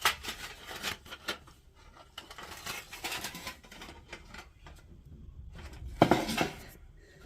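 Thin metal parts of an ultralight folding fire pit being handled and fitted together: light clicks and scrapes, with a louder clatter of knocks about six seconds in.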